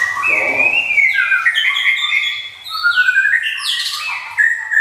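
White-rumped shama singing: a fast, varied run of clear whistled notes, many of them quick falling sweeps.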